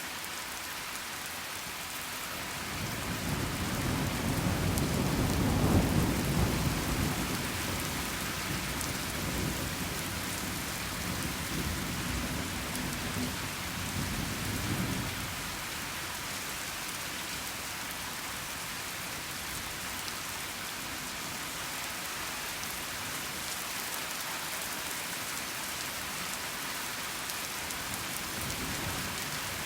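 Steady rain falling, with a long rolling peal of thunder that builds a few seconds in, is loudest at about six seconds, then rumbles on and dies away about fifteen seconds in.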